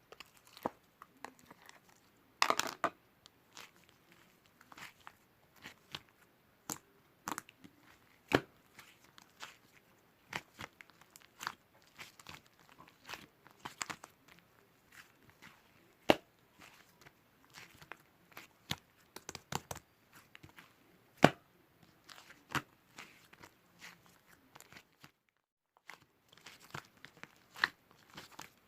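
Close, irregular small clicks, taps and crinkles of objects being handled by hand, with a few sharper knocks standing out.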